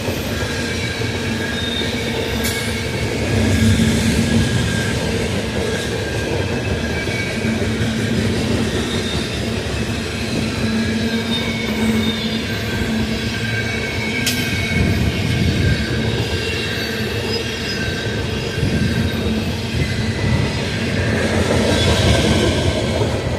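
Cars of a coal train rolling past: steel wheels on rail making a steady rumble, with a thin high squeal from the wheels and an occasional sharp clank.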